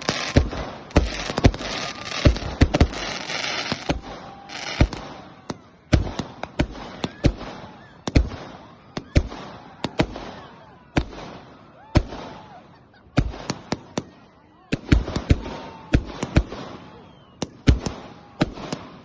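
Fireworks going off: a dense run of bangs and crackling over the first four seconds, then irregular sharp bangs, single and in quick clusters, about once a second.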